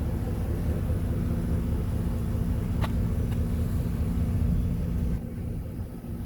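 Low rumbling noise with a steady hum under it, which drops away sharply about five seconds in; a single short click near the middle.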